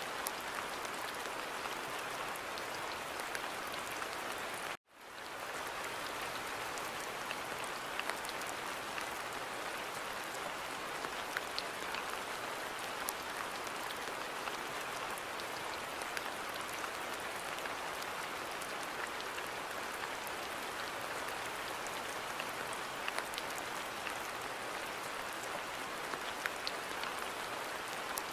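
Steady rain falling, with scattered sharper drop ticks. The sound cuts out completely for an instant about five seconds in and then fades back up, as at the splice of a looped recording.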